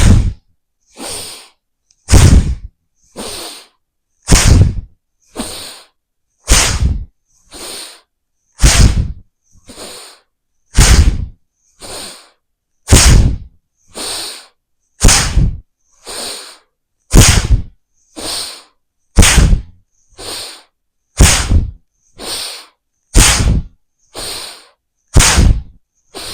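Bhastrika (bellows breath): forceful, rhythmic breaths in and out through the nose, about one a second, alternating louder and softer rushes of air.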